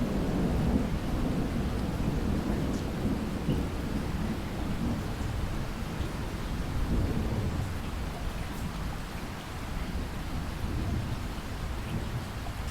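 Steady rain falling, with a low rolling rumble of thunder that swells at the start and again about halfway through, then eases off.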